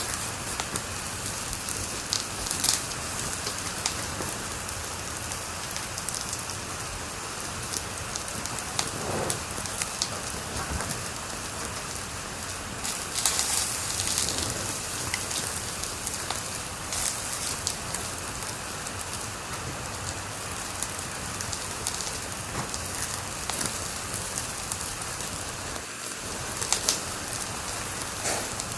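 Wood fire crackling in a fireplace: a steady hiss with scattered sharp pops, and a brief flurry of louder crackles about halfway through.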